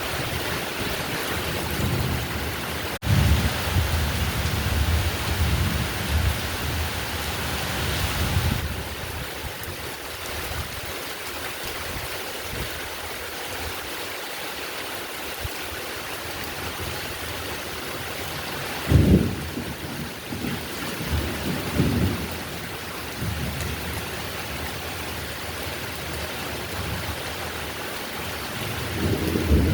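Heavy steady rain with rolls of thunder: a long rumble in the first third, a sharp crack of thunder about two-thirds of the way in followed by further rumbles, and more thunder building near the end.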